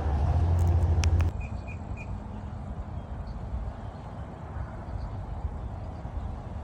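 A low rumble for about the first second, cut off after a couple of sharp clicks, then a bird giving three quick chirps. Faint high bird chirps continue over a quiet outdoor background.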